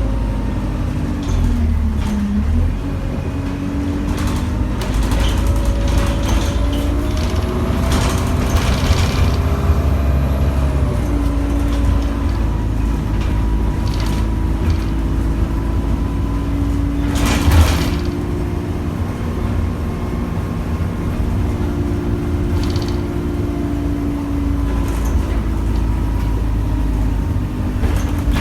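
Inside an Alexander Dennis Enviro200 single-deck bus under way: a steady low engine drone with whining tones from the drivetrain that shift in pitch as the bus speeds up and slows down. About 17 seconds in comes a short, loud hiss of air.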